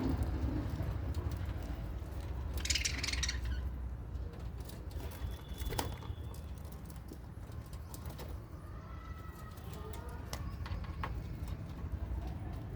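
Aviary birds calling faintly, with short chirps in the second half and a brief rustle about three seconds in, over a steady low rumble.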